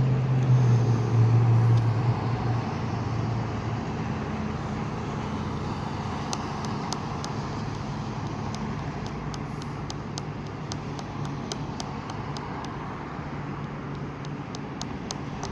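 A low engine hum, strong at first and fading over the first two or three seconds, then steady outdoor traffic noise. From about six seconds in, a regular fast ticking of two or three ticks a second runs underneath.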